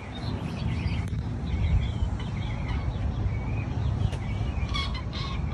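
Birds chirping faintly in short scattered calls over a steady low rumble.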